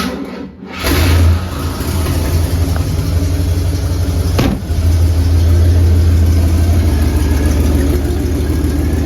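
Freshly rebuilt 472 cubic-inch V8 of a 1968 Cadillac DeVille cranking briefly and catching within a second, then running smoothly at idle. The engine sound dips briefly about four and a half seconds in.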